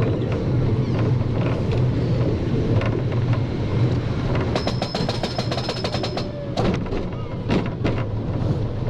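Wildfire roller coaster train rolling out along its track with a steady low rumble. About halfway through comes a quick run of clicks, roughly eight a second for under two seconds, followed by a few separate knocks.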